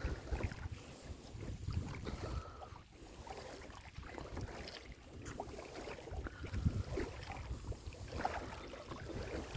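Water sloshing and lapping against a kayak, with scattered small knocks and a low, uneven wind rumble on the microphone.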